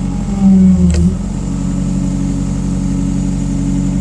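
CAT 305.5 mini excavator's diesel engine running steadily, with a brief louder stretch about half a second in as the hydraulics take load while curling the boom, stick and bucket in tight, ending in a short click, then back to an even run.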